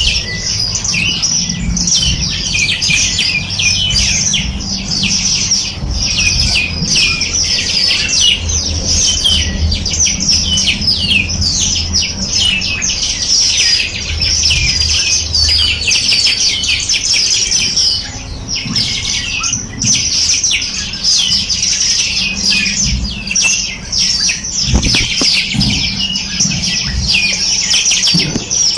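A dense chorus of small songbirds chirping and trilling rapidly and without a break, over a low steady rumble.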